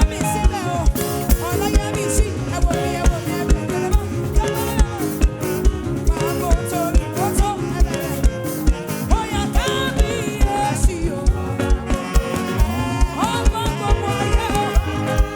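Live gospel praise band music with a steady, driving kick-drum beat of about two to three beats a second under a full band.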